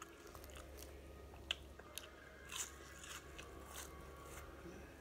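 Close-up chewing of crispy battered deep-fried arugula (jarjir) leaves, with a few sharp crunches, the loudest about a second and a half in. The fried coating is oily and has gone soft in places.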